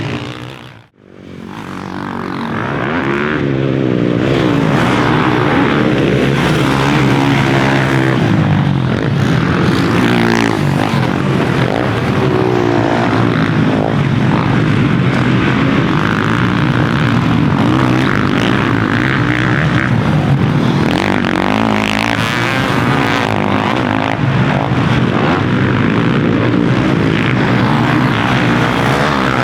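Motocross bike engine racing, its pitch rising and falling with throttle and gear changes. The sound drops away sharply about a second in and then builds back up.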